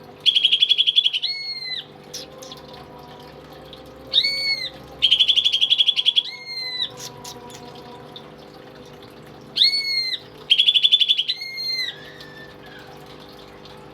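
Greater green leafbird (cucak ijo) singing in loud phrases that repeat three times, a few seconds apart. Each phrase is a clear whistled note, a fast buzzy trill of about a second, then another whistled note. A steady low hum runs underneath.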